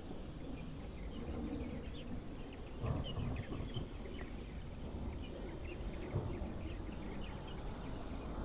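Quiet outdoor ambience: scattered short bird chirps over a low background rumble, with a brief low swell about three seconds in.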